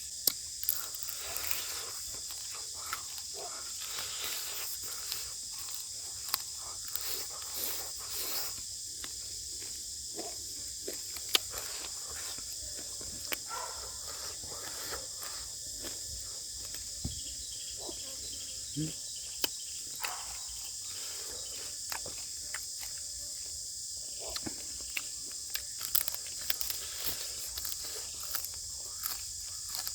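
Steady high insect chorus of crickets or cicadas, with scattered short clicks and knocks of things being handled.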